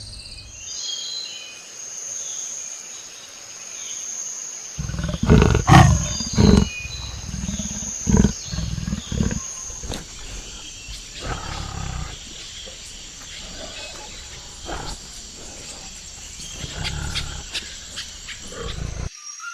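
A high, steady insect drone, then from about five seconds in a run of loud, deep animal roars and thuds. The sound cuts off suddenly near the end.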